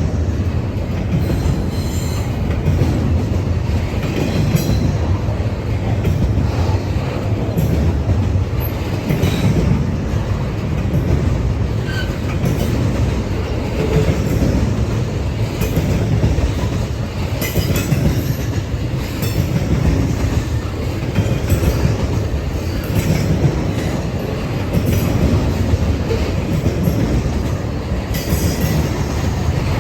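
Freight train rolling past, a steady heavy rumble of cars on the rails with clatter from the wheels and brief high wheel squeals now and then.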